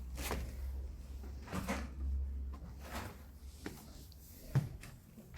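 Irregular knocks and scrapes, about five of them, with a sharper knock near the end, over a steady low rumble.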